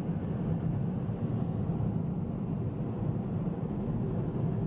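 A car driving along a road: a steady low rumble of engine and tyre noise with no change.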